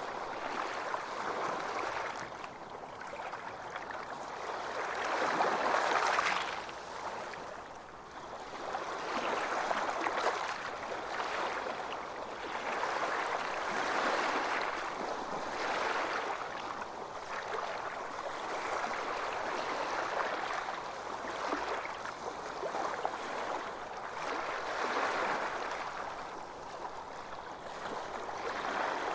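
Ocean surf washing onto a beach: a steady rush of breaking waves that swells and eases every few seconds, the loudest swell about six seconds in.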